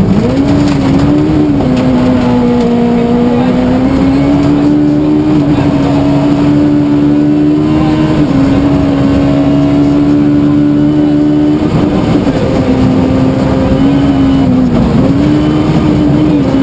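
Suzuki Swift rally car's engine running hard at speed on a stage. Its pitch climbs slowly through a long pull, drops suddenly about two-thirds of the way through as the driver lifts or changes gear, then rises and falls with the throttle.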